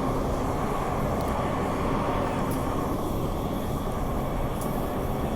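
Steady running noise inside a Transperth B-series electric multiple unit travelling through the tunnel, the wheels on the rails and the motors making an even rumble.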